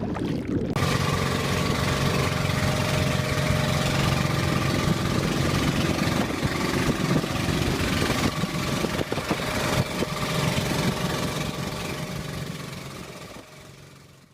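A boat's engine running steadily under way, with a hiss of wind and water over it, fading out near the end.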